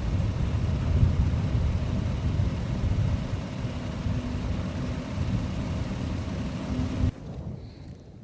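Motorcycle engine running steadily while riding, under heavy wind rumble on the microphone. It cuts off suddenly about seven seconds in, leaving much quieter outdoor sound.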